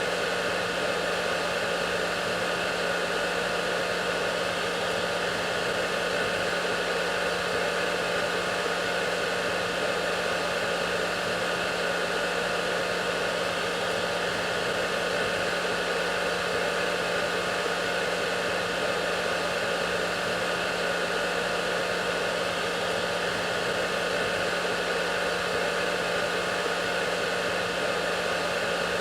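Hair dryer running steadily on one setting: a constant rush of air over its motor's steady hum, with no change in pitch or loudness.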